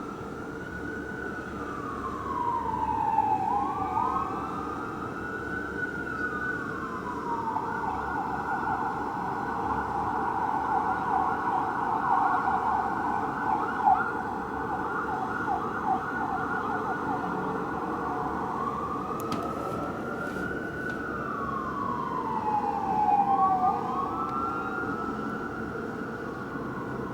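Fire engine's electronic siren wailing in slow rising and falling sweeps, two siren tones overlapping. About a third of the way in it switches to a rapid yelp, then goes back to the wail.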